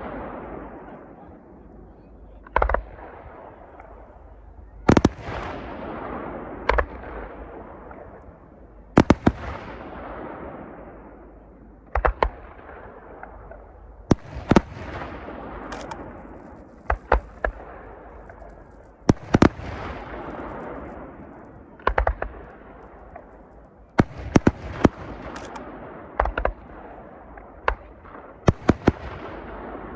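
Aerial firework shells bursting: sharp bangs every one to three seconds, some in quick pairs or clusters, each trailing off in a long echoing rumble.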